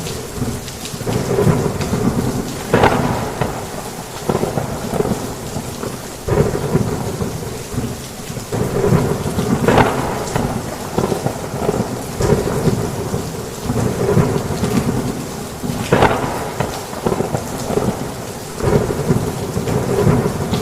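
Heavy rain falling on a roof, with thunder rumbling through it and louder surges every few seconds.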